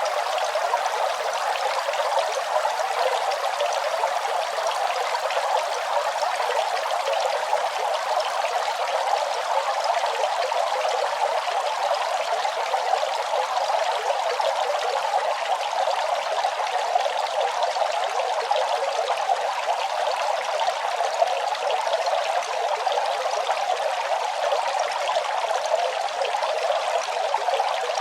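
Running water flowing steadily and without a break, its sound sitting in the middle and upper range with almost no deep rumble.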